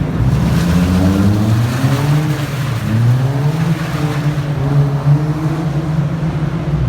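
Car engine being driven hard. It revs up twice, climbing in pitch each time, then holds steady at high revs.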